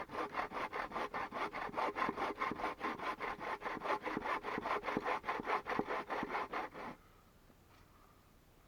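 Hand saw cutting through wood in quick, even back-and-forth strokes, stopping about two seconds before the end.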